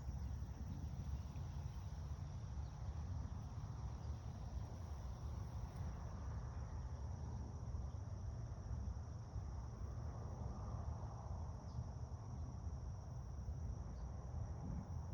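Steady high-pitched insect chirring, constant throughout, over a low rumble.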